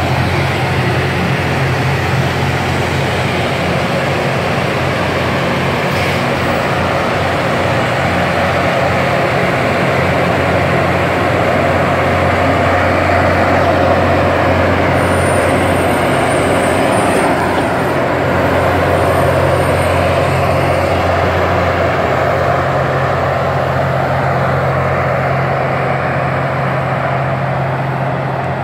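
Loram rail-maintenance train passing, a loud steady noise with a constant low engine drone underneath.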